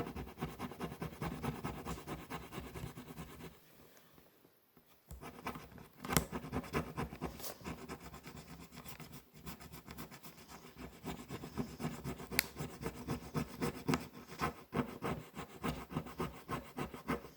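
Rapid, continuous scratching and rubbing by hand, with small clicks, pausing briefly about four seconds in.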